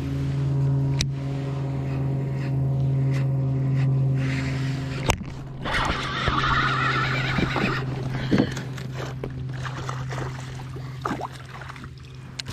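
Boat motor running with a steady hum. There is a sharp click about five seconds in and a burst of hiss from about six to eight seconds.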